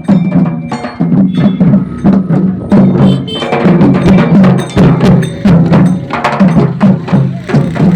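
Jhumur folk dance music: steady, rapid drumming with sharp clicking strikes over it.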